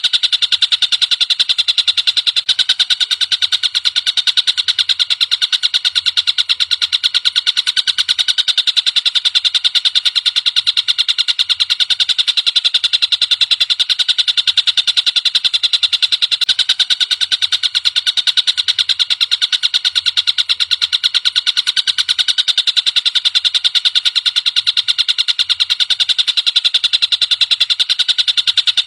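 Tengkek buto, a kingfisher, calling in one unbroken, very rapid high-pitched trill of fast repeated notes, from a masteran song recording used to tutor songbirds.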